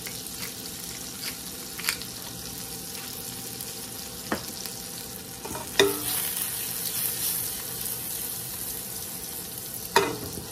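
Trumpet mushrooms sizzling in butter in a hot sauté pan: a steady frying hiss. A few sharp clicks and knocks from the pan and utensil come through it, the loudest about six and ten seconds in.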